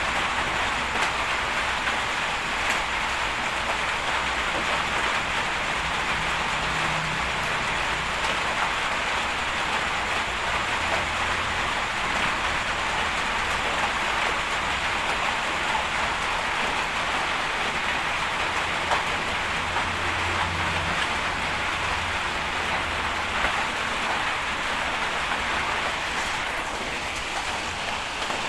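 Bulldozer working: a steady low diesel engine drone under a constant noisy rush.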